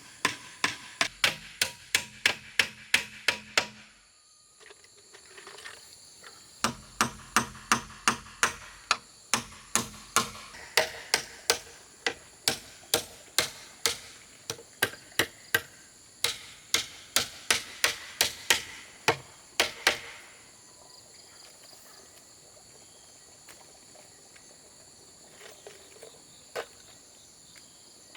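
Rapid, evenly spaced hammer-like strikes on a hard material, about three a second, in two runs: one breaks off about 4 seconds in, the other resumes a couple of seconds later and stops near 20 seconds. Insects chirp steadily and high throughout.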